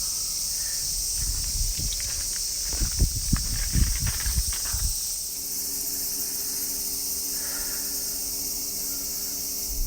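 A steady, shrill chorus of insects chirring. A few low thumps come in the middle, and a faint low hum joins in the second half.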